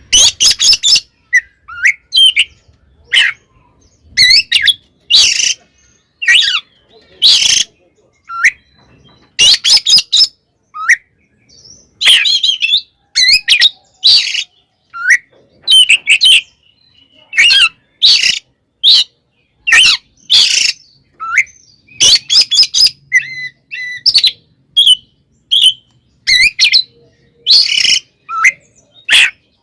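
Oriental magpie-robin (kacer) singing its loud, aggressive fighting song: short rapid phrases about once a second with brief pauses between them, harsh rasping bursts mixed with clear whistles and pitch glides. It is the song of a bird worked up to fight, the kind played to provoke other kacer.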